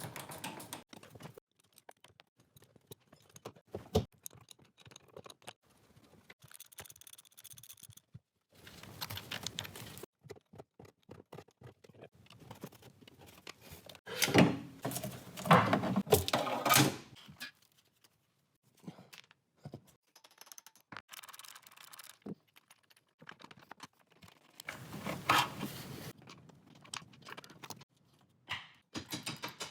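Intermittent workshop clatter of tools and car parts being handled: clicks, knocks and metallic clanks. There is a sharp knock a few seconds in, a longer louder stretch of clattering about halfway through and a shorter one near the end, and the sound cuts off abruptly several times.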